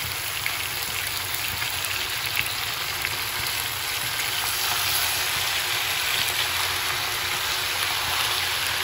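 Hot oil sizzling in a kadai as freshly washed, still-wet Malabar spinach (pui shak) leaves and stems go in on top of fried potato and pumpkin. A steady hiss with small crackles, a little louder from about four seconds in.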